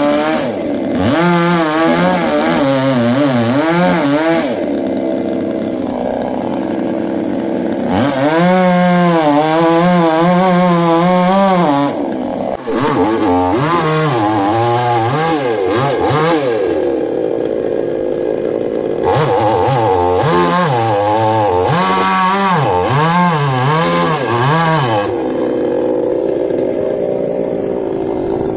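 Two-stroke chainsaw running loud, its engine pitch wavering up and down again and again under throttle, with a few steadier, quieter stretches between.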